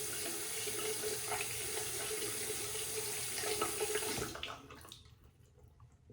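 Water running from a tap into a sink in a steady rush, shut off a little over four seconds in.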